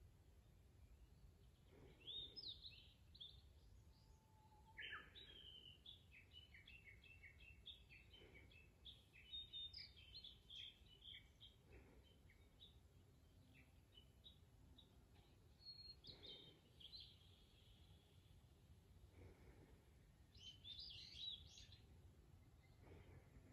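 Wild birds singing in phrases of high chirps and warbles, with a long run of quick, repeated notes from about five to thirteen seconds in and another burst of song near the end, over a faint low rumble.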